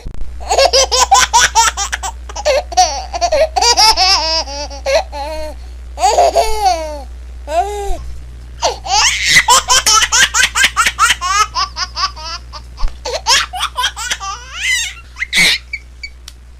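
A baby laughing hard in long fits of rapid, breathy bursts and high squeals, with short pauses for breath between fits.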